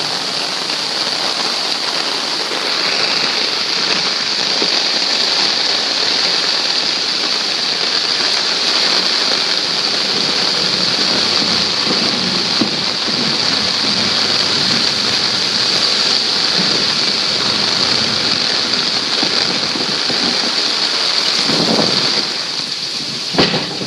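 Flooded creek water rushing steadily, a loud even roar of fast-flowing floodwater.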